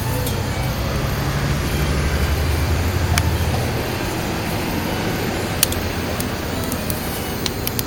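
Wood fire burning in a mini round wood stove: a steady rushing noise with a low rumble that eases after about four seconds, and a few sharp crackles from the twigs and pine cones.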